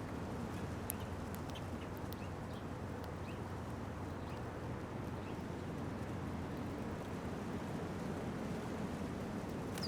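Faint, scattered short chirps of small songbirds over a steady low outdoor rumble and hiss, with occasional tiny clicks.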